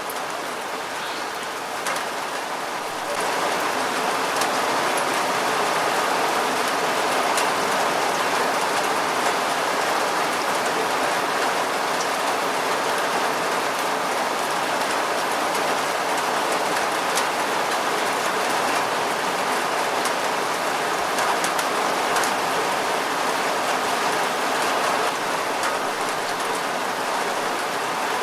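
Steady rain falling and pattering on surfaces, a dense even hiss that gets louder about three seconds in.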